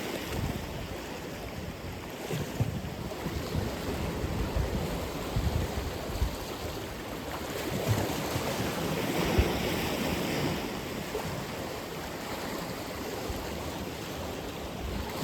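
Atlantic Ocean surf washing ashore in a steady wash, with a wave breaking and swelling louder about halfway through. Wind buffets the microphone with low rumbling gusts.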